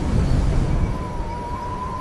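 Blizzard wind rumbling low and steady, with a thin, faintly wavering high tone that starts about a second in and holds.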